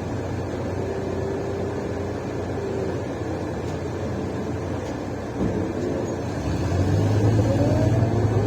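Mercedes-Benz O530 Citaro Ü bus with a broken exhaust, running while underway, heard from inside with engine and road noise. From about two-thirds of the way through, the engine grows louder and rises in pitch as the bus accelerates.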